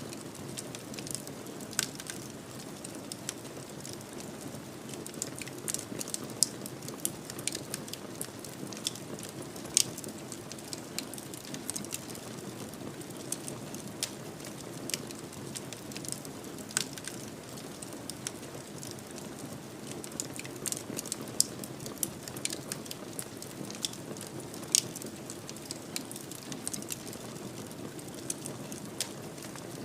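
Wood fire burning in a fireplace: a steady low rush of flames with irregular sharp crackles and pops, a few of them louder.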